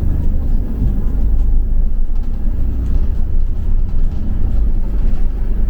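Double-decker bus in motion, heard from on board: a loud, steady low rumble of engine and road noise.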